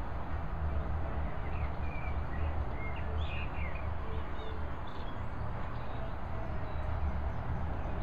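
Small birds chirping a few quick notes, mostly in the first half, over a steady low outdoor rumble.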